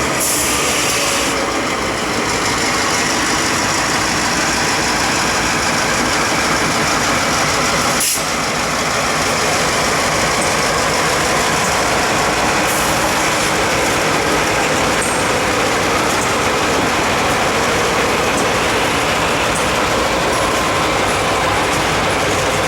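Norfolk Southern freight train rolling past close by, a loud, steady rumble of rolling cars, with a single sharp click about eight seconds in.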